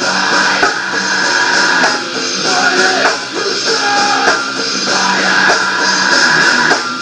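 Rock band demo recording: strummed guitar over a drum kit, with a thin sound that has almost no deep bass.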